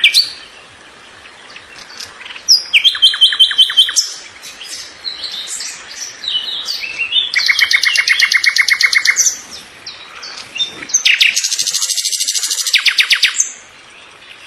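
Songbird singing: loud, high-pitched trilled phrases of rapidly repeated notes, each lasting one to two seconds and coming about every four seconds, with shorter chirps between them.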